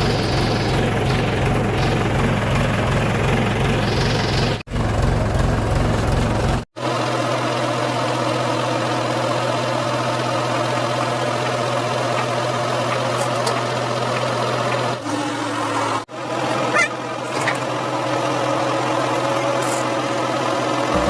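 Motor vehicle engines running steadily, in several clips joined by abrupt cuts about four and a half, six and a half and sixteen seconds in.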